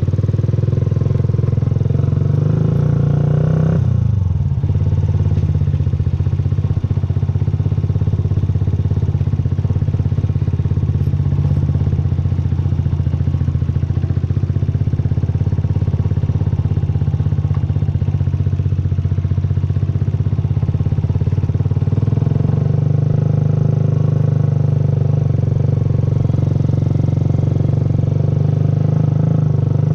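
Yamaha YZF-R125's single-cylinder four-stroke engine running steadily under way. Its note dips briefly about four seconds in, then holds level and climbs slightly after about twenty-two seconds.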